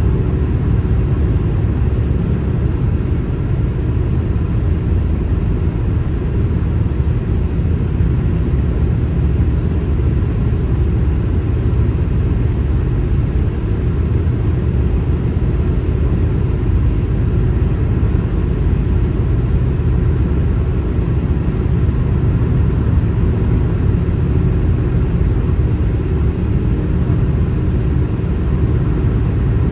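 Car on a highway: a steady, unbroken low rumble of road and engine noise, even in level throughout, with no distinct passes or other events.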